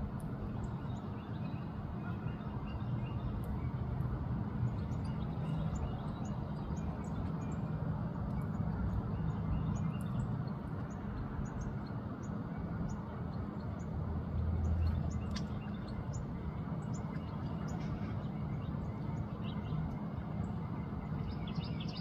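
Many short, high bird chirps scattered over a steady low rumble of background noise.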